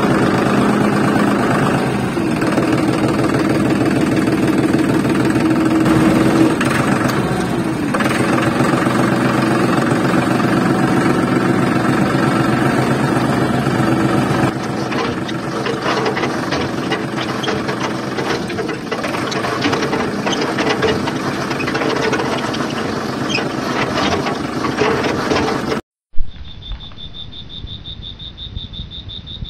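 Engine running steadily with a fine, even pulse while the toy tractor pulls. It cuts off suddenly near the end, followed by one sharp knock and then a faint, steady high whine.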